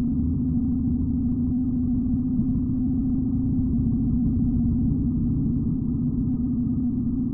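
Engine of a 1941 BMW R75 motorcycle, a 745 cc flat-twin, running at a steady speed with an even low drone.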